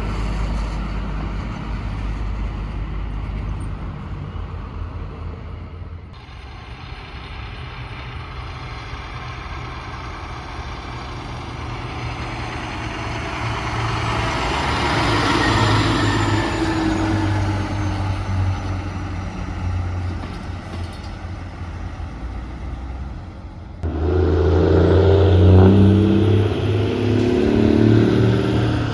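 Heavy trucks driving past, engines running with tyre noise that swells and fades as one goes by in the middle. The sound changes abruptly twice, and a louder engine with a strong low hum comes in near the end.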